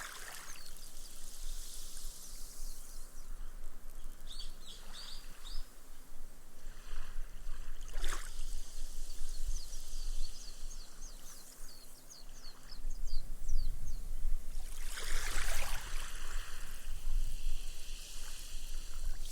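Small, gentle waves washing up a sandy beach and soaking into the sand, the foam fizzing with many tiny crackles as its bubbles burst. A larger wash swells up about two-thirds of the way through, with a low rumble under it.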